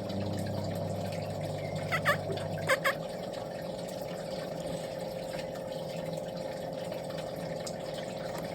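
Birds giving four short calls that dip and rise in pitch, two about two seconds in and two near the three-second mark, over a steady mechanical hum.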